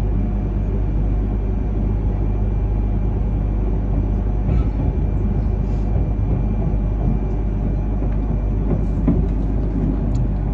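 Steady low rumble of an E3 series Shinkansen running, heard inside the passenger cabin, with a few faint clicks and rattles.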